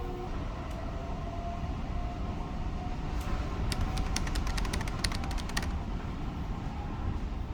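A steady low rumble, with a quick run of sharp clicks between about three and six seconds in.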